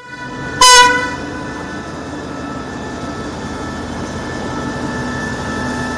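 Train horn sounding, with a very loud blast about half a second in, over the steady rumble of the train running on the rails.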